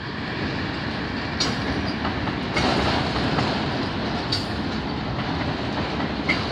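Freight train of CN autorack cars rolling past: a steady rumble and rush of steel wheels on the rails, with a few sharp clicks every second or two.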